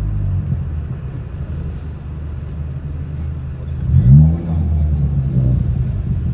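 Car engine running at low speed, heard from inside the cabin, with a short rev that rises and falls about four seconds in.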